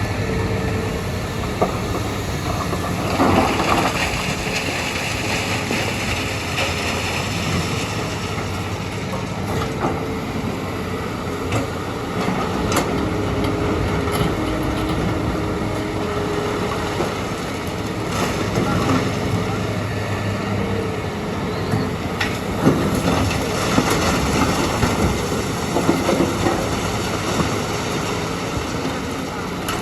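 Hitachi EX200 excavator at work: its diesel engine runs steadily under load while the bucket and digging give metal clanks and a scraping rattle, with several sharp knocks scattered through.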